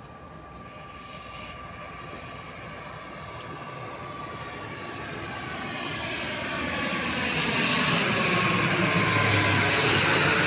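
ATR 72-600 turboprop airliner's engines and propellers, growing steadily louder as the aircraft approaches and peaking near the end, where its whining tones slide down in pitch as it passes.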